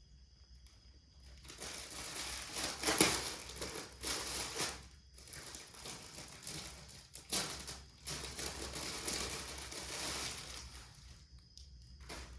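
Plastic packaging crinkling and rustling as it is handled, in several long bursts with short breaks.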